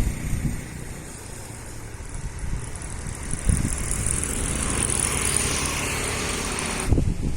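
A motor vehicle passing on a road, growing louder over a few seconds; the sound cuts off abruptly near the end.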